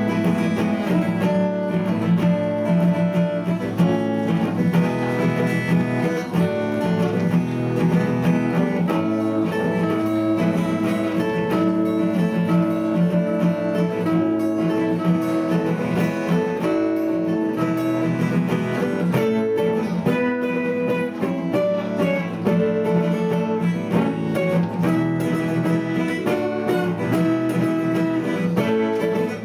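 Acoustic guitar playing a song, strummed and plucked chords.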